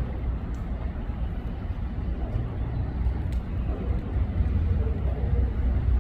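Low, steady rumble of a train at a station, growing slightly louder near the end.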